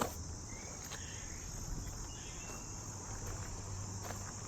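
Crickets chirring as a steady, high-pitched outdoor chorus, with a few faint ticks.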